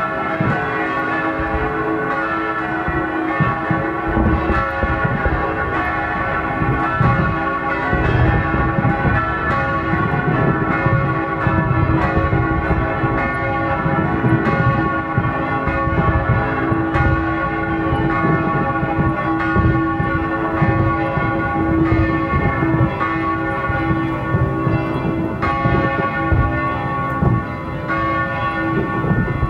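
Church bells pealing continuously over the constant bangs, rumble and crackle of New Year's Eve fireworks.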